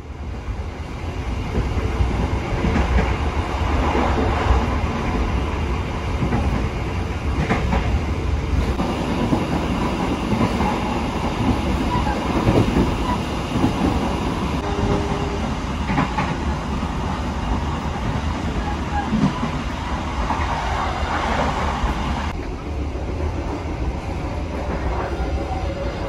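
Train running on the rails: a steady, loud rumble with wheel-on-rail noise.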